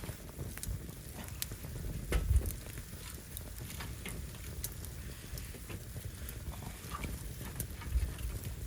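Firewood burning in an open fire, crackling with many scattered sharp pops and snaps. A heavier low rumble swells about two seconds in and again near the end.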